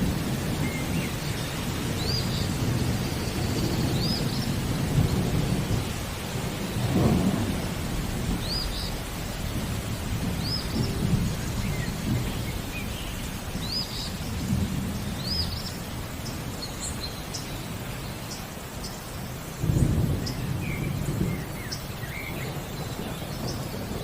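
Steady rain with low rolling thunder that swells and fades, and a sudden louder clap about twenty seconds in. Over it, a bird gives short high chirps every second or two, thinning to scattered faint chirps later.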